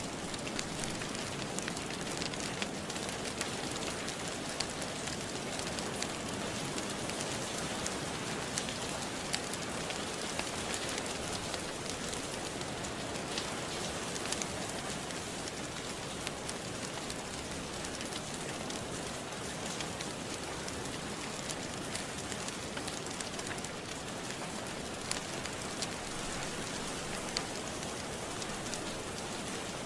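Steady rain mixed with a crackling fireplace: an even hiss of rain with scattered sharp crackles and pops.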